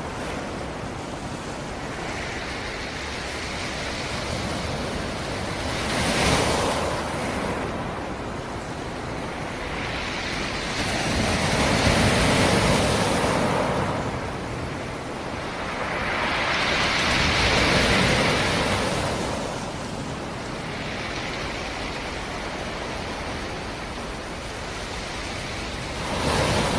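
Black Sea surf: waves breaking and washing ashore, each surge swelling and fading over a few seconds, the loudest about halfway through.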